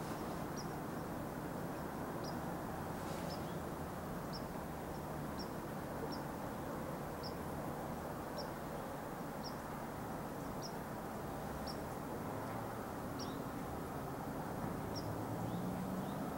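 A small bird repeating a short, high chip note about once a second over a steady low background rumble.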